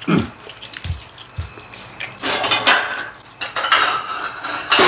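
Chopsticks and spoons clicking and scraping against stainless-steel bowls and dishes at a meal, with several sharp clicks and some longer noisy stretches in the second half.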